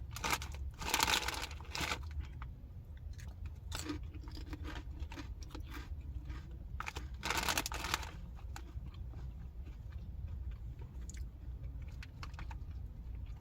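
Crunchy snack chips being chewed close to the microphone, a run of small crisp crunches, with two louder bursts of crunching and rustling about a second in and about halfway through.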